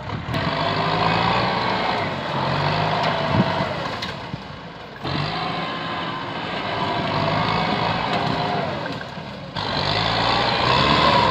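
Kubota M8540 tractor's diesel engine working under load, its pitch wavering up and down. A sharp knock about three and a half seconds in. The sound changes abruptly about five and nine and a half seconds in.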